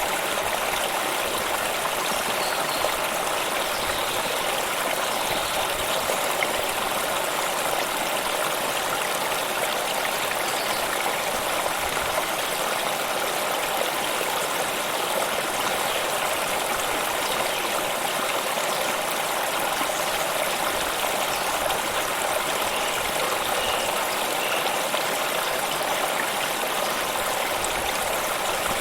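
Steady rushing and trickling of a stream flowing over stones, an even, continuous water noise.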